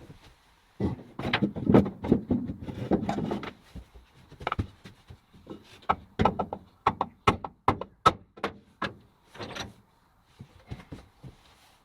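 Irregular knocks and clatter, like objects being handled and set down. There is a dense rattle for a couple of seconds, then a string of separate sharp taps that dies away near the end. No motor is running.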